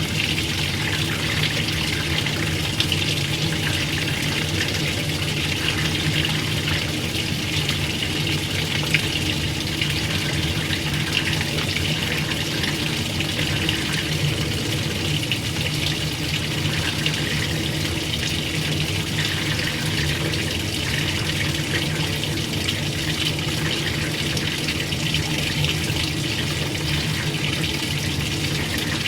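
Water running steadily into an old-style washing machine, a constant hiss over a steady low hum that does not change.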